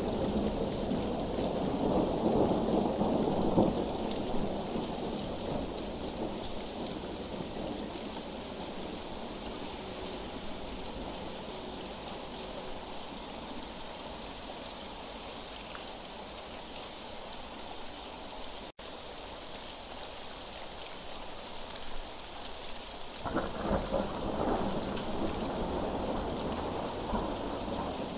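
Steady heavy rain falling, with rolling thunder: a long rumble in the first few seconds and another starting a few seconds before the end. The sound cuts out for an instant near the middle.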